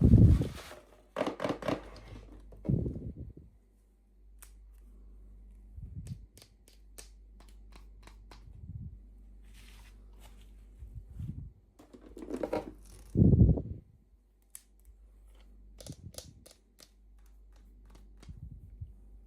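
Hands handling small plastic toys and packaging: scattered light clicks, taps and rustles, with a few louder dull thumps near the start and just after the middle.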